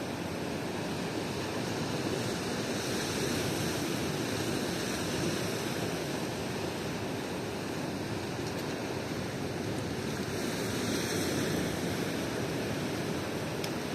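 Steady rushing noise of strong wind and surf, with no engine or voice standing out; the hiss swells twice.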